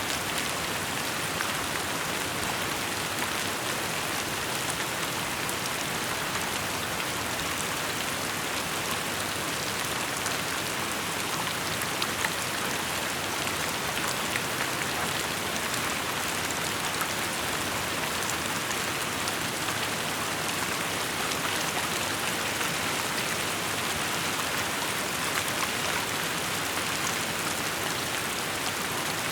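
Steady rainfall, a dense hiss of drops with scattered individual drop ticks, a couple of them a little louder about twelve seconds in.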